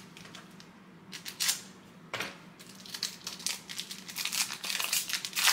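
Wrapper of a trading card pack being torn open and crinkled by hand: a few separate crackles, then a busy run of crackling in the second half.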